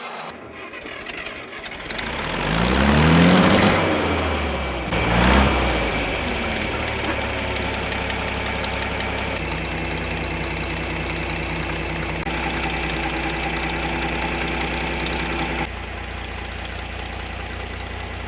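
The 1965 John Deere 4020 tractor's six-cylinder gasoline engine revs up twice, then settles into a steady idle. Its note steps down slightly near the end.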